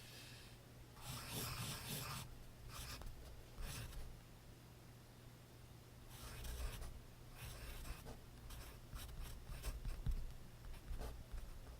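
Graphite pencil scratching across notebook paper in irregular runs of quick strokes, with a denser stretch of writing in the second half.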